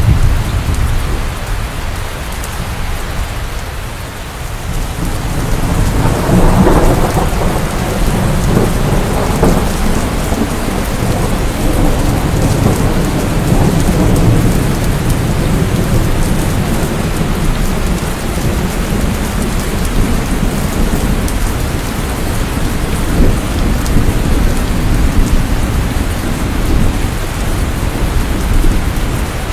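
Steady heavy rain with deep rolling thunder. The thunder swells about six seconds in and keeps rumbling under the rain.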